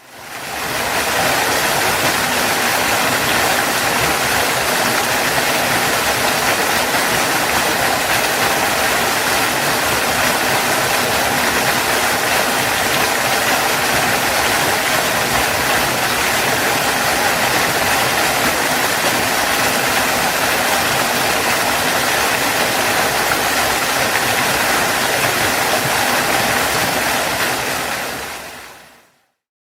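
Waterfall rushing: a steady, even sound of falling water that fades in over the first second and fades out over the last two seconds.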